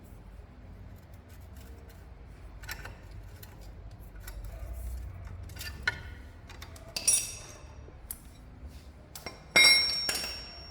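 Hand tools working on steel suspension parts: scattered light taps and clicks, then two sharp metallic clanks that ring on briefly, the louder one near the end.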